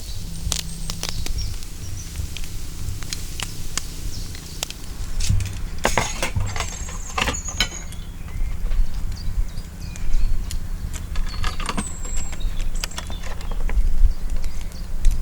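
Outdoor ambience: a steady low rumble with scattered sharp clicks and crackles, and short high bird chirps a few times.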